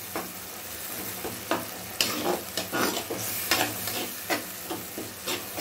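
Onions and tomatoes sautéing in oil in a clay pot (manchatti): a steady sizzle, with a steel ladle stirring and scraping against the pot about twice a second, irregularly. The tomatoes are being cooked down until soft.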